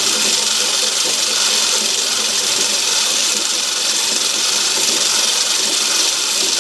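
Myford ML7 lathe running under power on a thread-cutting pass, its change-gear train and leadscrew driving the carriage as the tool cuts a metric thread in aluminium. It makes a steady, even whirring hiss.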